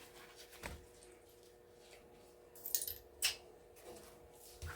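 A few faint clicks and light metallic taps from small brass plug parts and fuses being handled and sorted, the sharpest about three seconds in.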